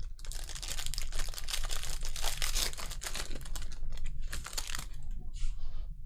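Crinkling and tearing of a trading-card pack wrapper being ripped open and handled, a dense crackle lasting about five seconds, with a few shorter rustles near the end.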